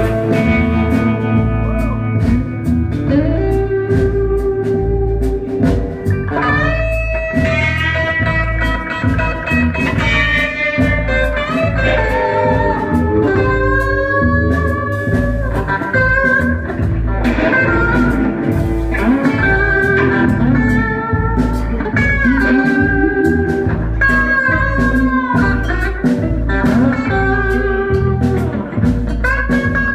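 Live band playing an instrumental break: a guitar leads with bending, gliding notes over steady bass notes and a regular drum beat.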